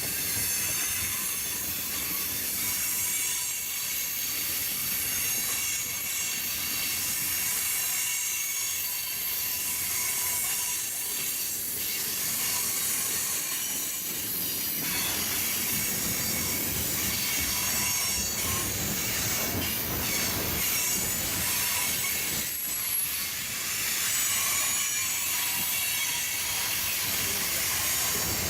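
Freight train cars rolling steadily past with their wheels squealing: several high-pitched tones over a low rumble.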